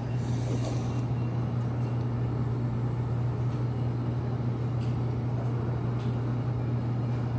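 Car running, heard from inside the cabin: a steady low hum with rumble beneath it.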